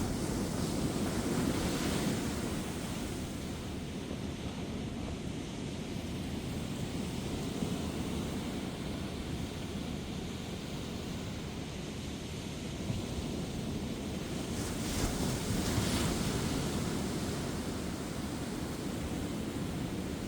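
Ocean waves breaking and washing up a beach in a steady rush, with gentle wind on the microphone. The surf swells louder about two seconds in and again around fifteen seconds, as waves break.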